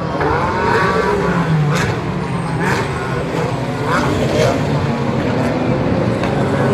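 GT race car engines running, a steady low drone with sharp cracks every second or so.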